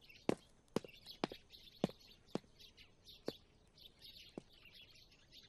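Birds chirping steadily, with seven sharp taps over it, about two a second at first, then more spread out.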